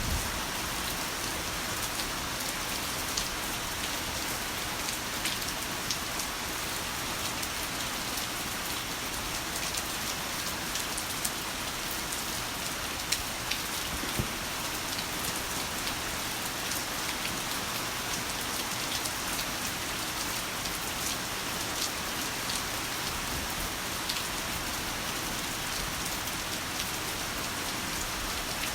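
Heavy rain falling steadily: a dense, even hiss with many separate drops ticking on top of it.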